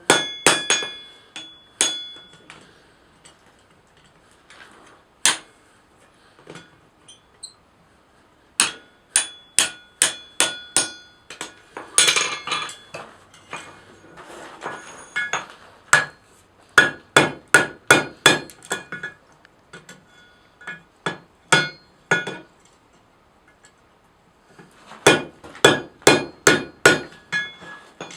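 Blacksmith's hammer striking hot iron on an anvil with a bright metallic ring, in bursts of several quick blows about two a second, broken by short pauses between heats. The hammering switches between his left and right hand.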